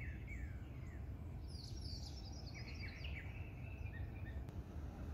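Wild birds chirping, with short downward-sliding chirps and a fast high twittering run about two seconds in, over a steady low rumble.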